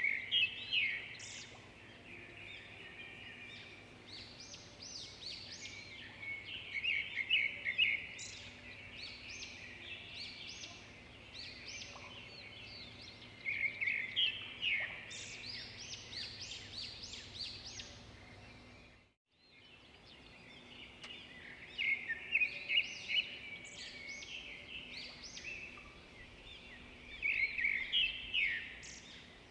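Swiftlets twittering: clusters of rapid, high-pitched chirps that recur about every seven seconds, with a steady hiss between them. The sound cuts out briefly about two-thirds of the way through.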